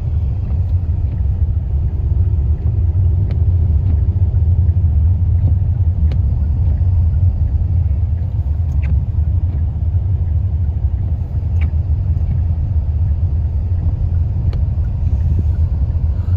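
Steady low rumble of road and engine noise heard from inside a moving car, with a faint tick about every three seconds.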